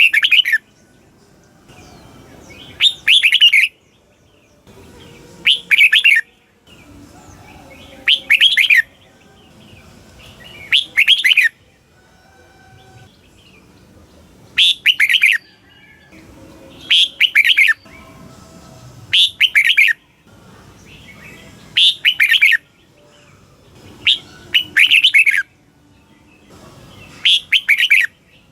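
Red-whiskered bulbul singing short, quick phrases of a few notes each, repeated about every two to three seconds, about ten phrases in all.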